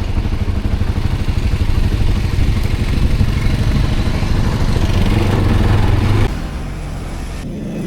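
ATV engine running with a rapid pulsing beat, growing louder toward about five seconds in, then dropping suddenly to a quieter engine sound about six seconds in.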